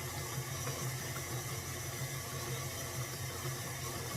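Electric stand mixer running steadily at low speed with an even motor hum, churning cultured sour cream that has not yet turned to butter.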